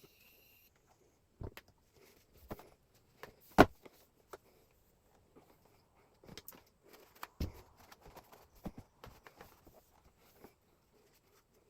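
Irregular knocks and clicks of hard objects being handled and set down, the loudest about three and a half seconds in.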